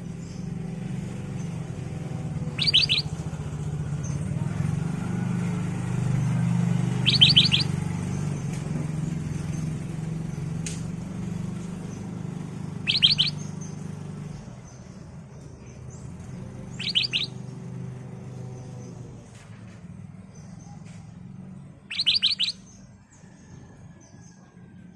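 Black-crested bulbul (kutilang emas) calling: five short, quick bursts of a few bright notes each, spaced several seconds apart, over a low steady hum.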